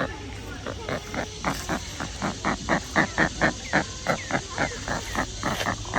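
Roseate spoonbill giving a fast run of low grunting calls, about four or five a second, loudest around the middle.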